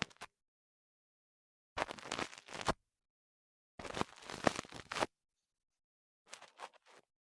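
Close-up handling noise in two bursts of rapid crackling clicks, each about a second long, then a few lighter clicks near the end, with dead silence between.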